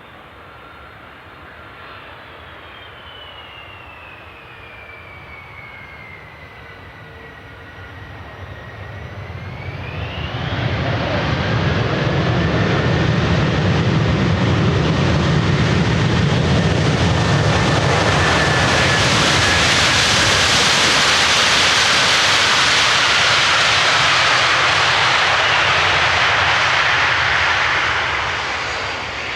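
Jet airliner engines: a faint whine that glides down, then sweeps sharply up about ten seconds in. It is followed by loud engine noise with a deep rumble for about fifteen seconds, easing off near the end.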